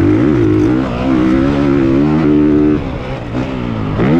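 A 450cc single-cylinder four-stroke motocross bike engine being ridden hard, revving up and down as the throttle is worked. The pitch dips and climbs quickly twice, and about three seconds in the throttle comes off briefly before the engine picks up again.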